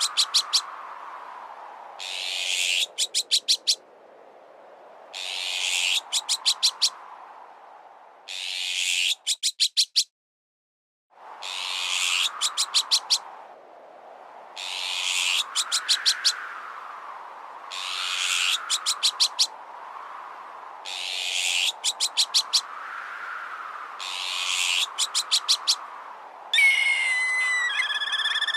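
Looped bird-repellent sound effect: a harsh, raspy bird-like call followed by a quick run of sharp clicks, repeating about every three seconds over a whoosh that swells and fades. The sound cuts out for about a second partway through, and near the end a different, wavering whistled call comes in.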